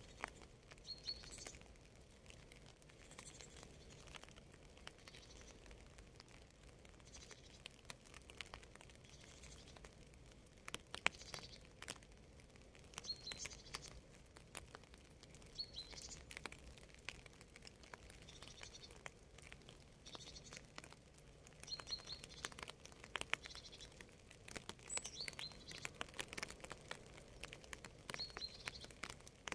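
Light rain, faint, with scattered drops ticking sharply, and a small bird giving a short chirping call every couple of seconds throughout.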